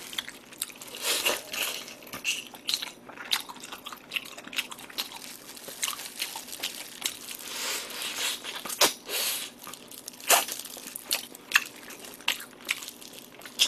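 Close-miked chewing of spicy marinated pig's trotters (yangnyeom jokbal), the meat bitten and gnawed off the bone, with irregular wet smacks and clicks of the mouth.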